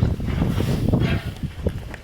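Wind buffeting the microphone: a low rumble that eases after about a second.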